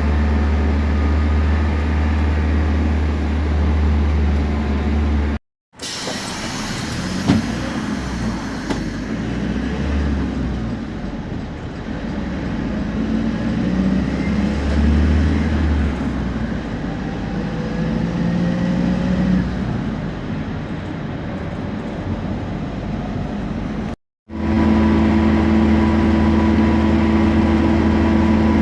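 Temsa Prestij SX midibus diesel engine running, with a steady low hum. The sound cuts out twice briefly; in the middle stretch it wavers and a faint rising whine comes and goes, and near the end it settles into a steady, louder hum.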